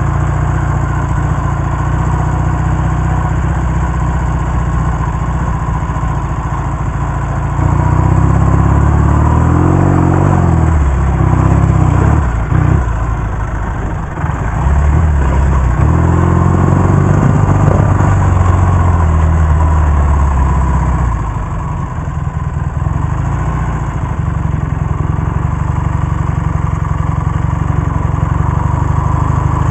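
1967 Triumph Bonneville T120R's 650 cc parallel-twin engine running under way, heard from the rider's helmet camera. About eight seconds in it is opened up, its pitch rising and falling twice over some twelve seconds, then it settles back to a steadier, slightly quieter run.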